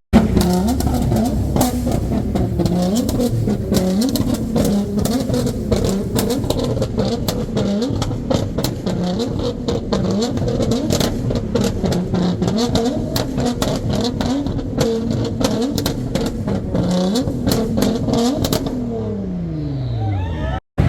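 Car engine revved over and over, its pitch climbing and dropping every second or two, with many sharp pops and crackles. Near the end the engine note falls away steadily.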